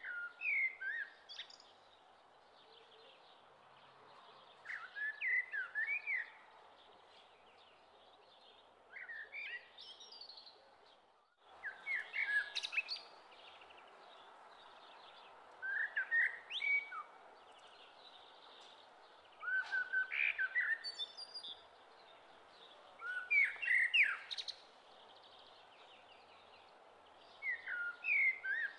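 Birdsong: short bursts of chirping that come back every three to four seconds over a steady background hiss, with a momentary cut-out in the sound about eleven seconds in.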